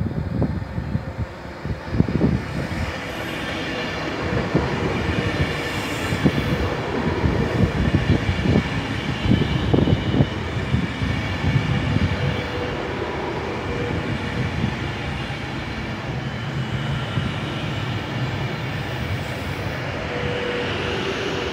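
Class 390 Pendolino electric train passing at speed: a loud rush of wheels on the rails. Through the first half its bogies clatter and knock over the rail joints, and then it settles into a steadier rushing.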